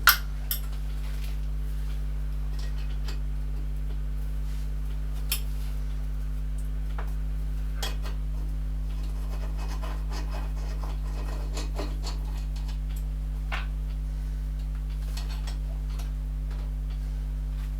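Scattered light metallic clicks and a little scraping from a hand tool worked on the lathe's screw fitting, over a steady low hum.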